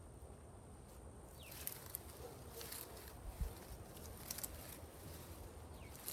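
Soil being scraped and rustled during sweet potato digging: a few short crunches and scrapes, with a dull thump about three and a half seconds in. Faint bird chirps sound in the background.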